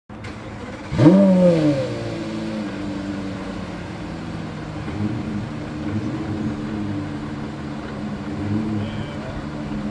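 Porsche Carrera GT's V10 engine starting: it fires about a second in with a quick rev flare that rises and falls back, then settles into a steady idle.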